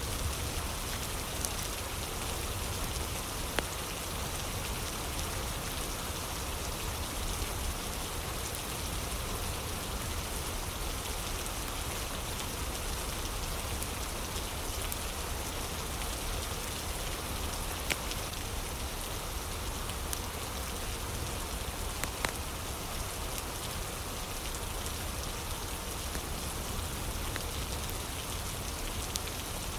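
Steady rain falling, with a few sharp single crackles of a wood fire scattered through it.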